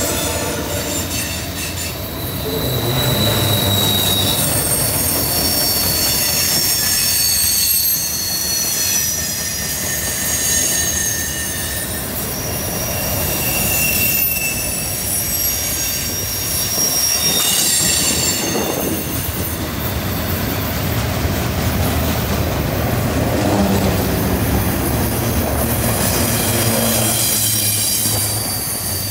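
Freight train rolling through a curve: the last diesel locomotive rumbles past in the first few seconds, then the freight cars' wheels squeal against the curved rail in several high, wavering tones that come and go, over the steady rumble and clatter of the wheels.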